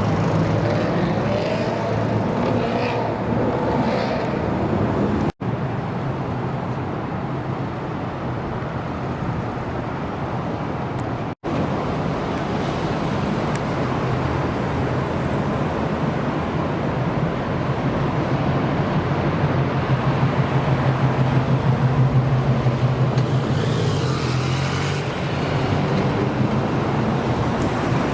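American car engines, muscle cars among them, running with a deep, steady exhaust note. Around two-thirds of the way through it grows louder and pulses evenly. The sound drops out briefly twice.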